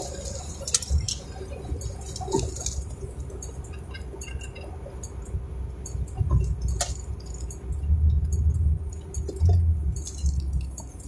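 Low road rumble inside a moving car, swelling a few times as if over bumps, with scattered small clicks and rattles from the cabin.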